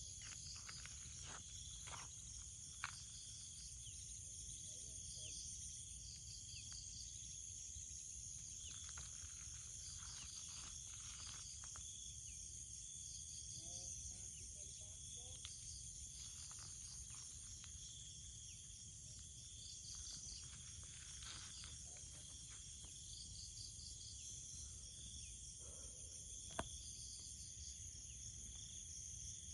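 Steady outdoor chorus of insects trilling and pulsing at several high pitches, with a low background rumble. Two sharp clicks come through, one a few seconds in and one near the end.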